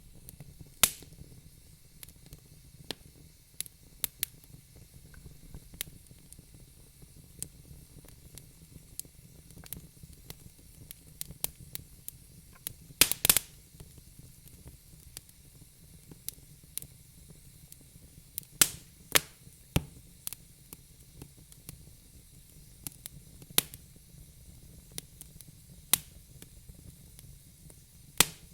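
Wood fire crackling in a fireplace: irregular sharp pops and snaps over a soft low rumble of the flames, with a quick cluster of louder pops about halfway through.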